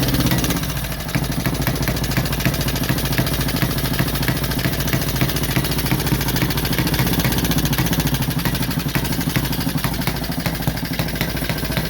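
1928 Benelli 175 Turismo motorcycle engine idling in a quick, even firing rhythm, with a brief dip in level about a second in.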